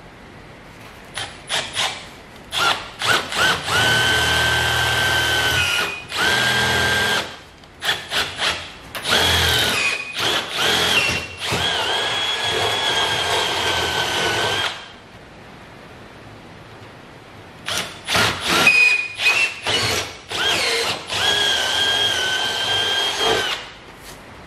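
Electric drill drilling holes through the stainless steel workbench top. It runs with a steady whine in short trigger blips and longer runs of several seconds, in two spells with a pause of about three seconds between them.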